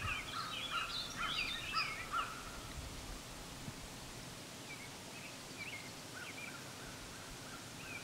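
Small wild birds chirping, a quick run of short chirps over the first two seconds, then a few scattered chirps later on.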